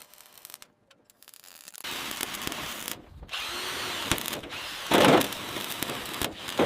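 Power tool running, starting about two seconds in, with a louder burst about five seconds in.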